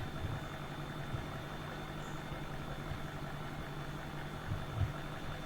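Steady low background hum with a faint high whine, and a couple of soft bumps near the end.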